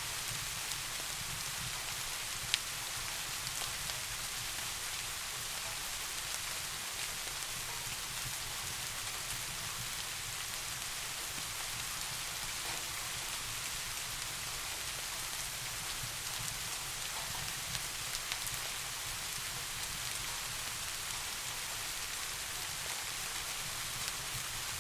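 Steady rain falling on a surface, an even hiss throughout, with a few sharp faint ticks, the clearest about two and a half seconds in.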